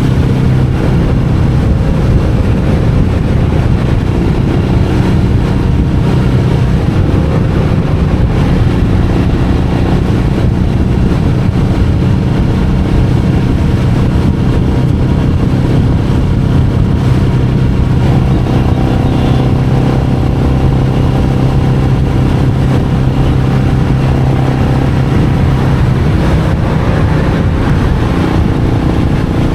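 Royal Enfield Meteor 350's single-cylinder engine running steadily under way, its note shifting about two-thirds of the way through and again near the end as the rider changes speed.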